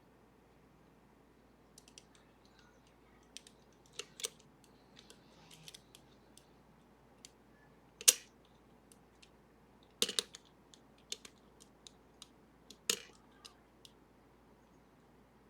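Scattered small metallic clicks and ticks of lock picks working the levers of a Sargent and Greenleaf 4440 safety deposit box lever lock, with three sharper, louder clicks about halfway through, two seconds later and three seconds after that.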